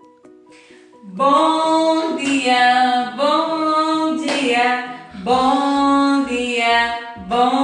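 Song with a high singing voice in melodic phrases, starting about a second in after a few fading plucked notes. A low, regular beat joins about five seconds in.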